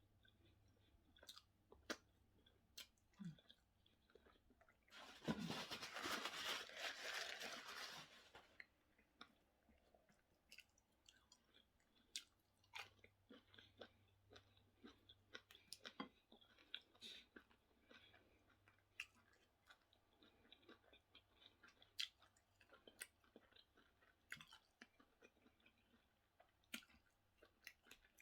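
A person eating plantain and fish in sauce, with soft close-up chewing, mouth clicks and smacks scattered throughout. About five seconds in there is a louder, noisy stretch lasting about three seconds.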